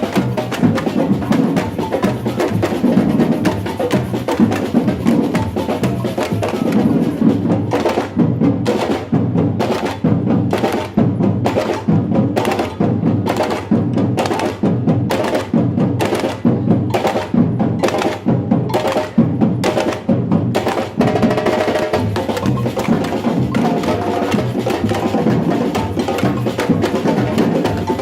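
Batucada samba percussion group playing a steady, loud drum rhythm. For a stretch in the middle the sound thins to sharp, evenly spaced hits, about two a second, before the full ensemble comes back in.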